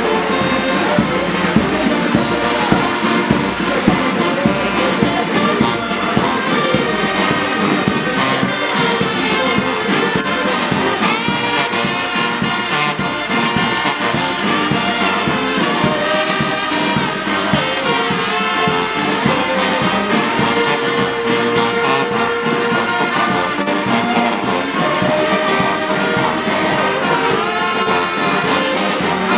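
Brass band music playing steadily, with trombones and trumpets.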